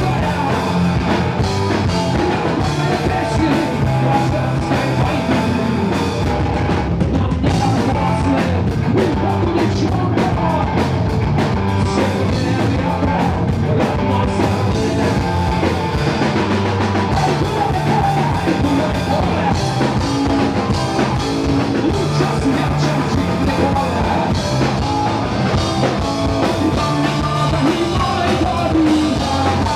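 Live rock band playing a loud, steady number with drum kit and bass.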